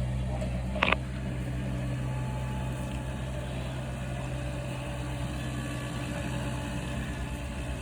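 An engine running steadily with a low drone, with one short sharp knock about a second in.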